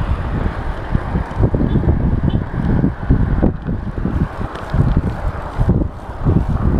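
Wind buffeting the microphone while riding a bicycle: a loud, uneven low rumble that rises and falls in gusts.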